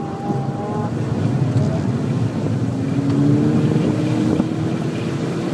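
VW GTI engine pulling under throttle in second gear at around 4,600–4,900 rpm, heard from inside the car. Its pitch rises slightly in the second half, over road and wind noise.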